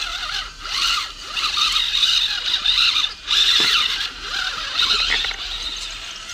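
Electric motor and gearbox of an RC rock crawler whining in stop-start bursts of throttle as it crawls uphill, with brief pauses about half a second in and a little after the middle.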